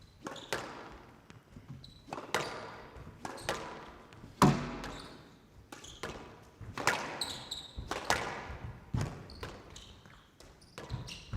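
Squash ball being struck by rackets and hitting the court walls during a rally, about once a second. Each crack is followed by a ringing echo, and the hardest hit comes about four and a half seconds in.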